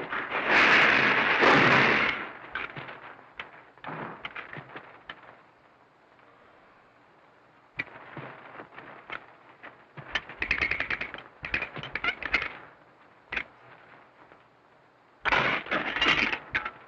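Slapstick crashes and clattering in several bursts: a loud crash at the start, scattered knocks, then two runs of rapid clatter near the middle and again near the end.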